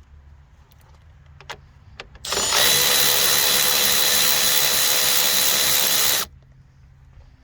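Milwaukee cordless electric ratchet with a 13 mm socket running steadily for about four seconds, spinning out a fan shroud bolt, after a few light clicks of tool handling.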